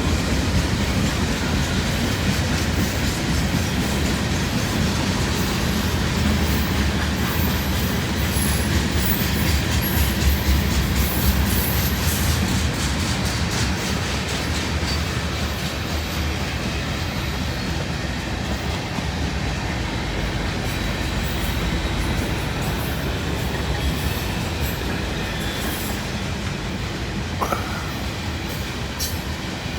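Loaded freight cars of a long train rolling past, their steel wheels clicking steadily over the rail joints, with a short high wheel squeal near the end.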